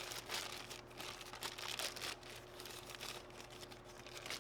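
Irregular rustling and crinkling as parts are handled, over a steady low hum.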